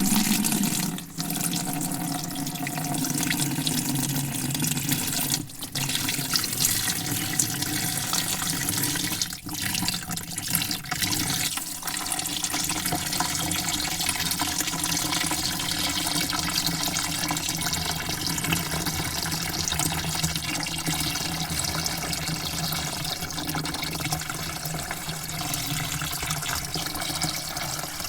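Water spraying steadily into a bucket, with a few brief breaks in the spray during the first twelve seconds or so.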